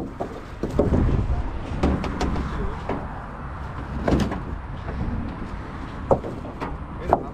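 Several sharp knocks and thuds over a steady low rumble.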